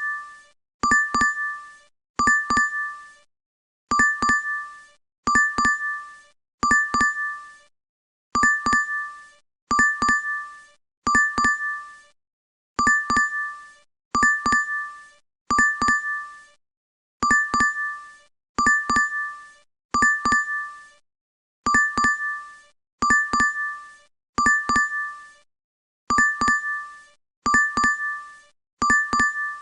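DoorDash app notification chime, a quick double ding, sounding over and over about once a second with short gaps between repeats.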